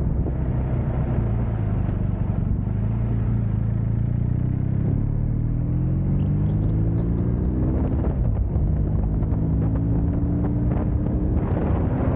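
Motorcycle engine pulling up through the gears under way: its pitch climbs from about five seconds in, drops at a gear change around eight seconds, then climbs again. A heavy rumble of wind on the microphone runs underneath.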